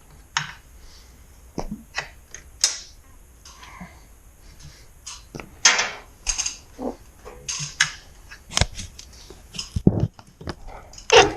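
Irregular clicks, taps and clanks of metal hardware and hand tools being handled while a garage door opener is mounted, with a few sharper knocks late on.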